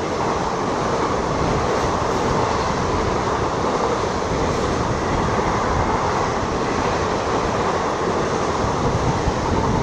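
Passenger coaches of an express train running past close by at speed: a steady, loud noise of wheels on rails and rattling coach bodies.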